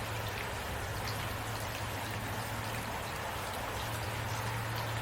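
Heavy rain falling steadily, an even hiss with scattered drop ticks and a low steady rumble underneath.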